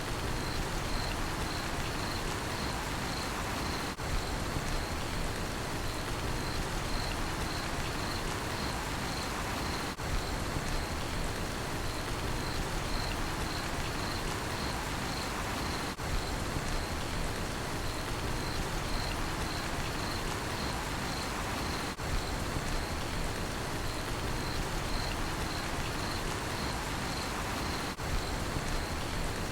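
Steady rain falling, with a cricket chirping in a regular pulse about twice a second. The level dips briefly about every six seconds.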